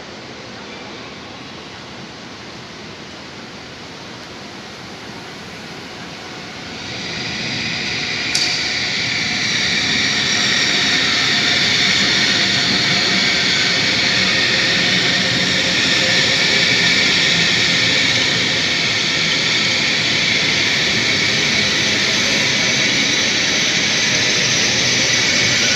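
A train running along the platform: steady rolling noise that grows much louder about seven seconds in and then stays loud, with one sharp click shortly after the rise.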